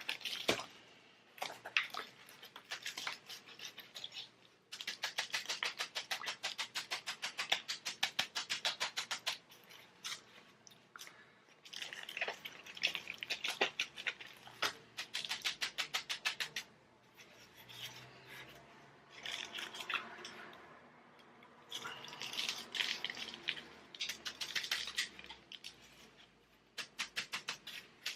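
Rapid, even tapping or rattling during potting work, about seven strokes a second, in bursts of a few seconds with pauses between.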